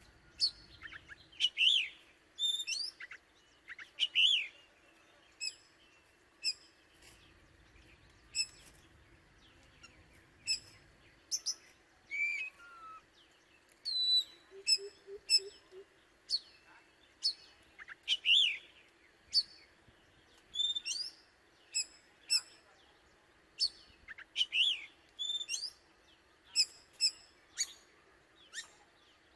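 Oriental magpie-robin singing: a varied, continuous run of short sharp whistles and chirps with slurred rising and falling notes, a phrase every second or so.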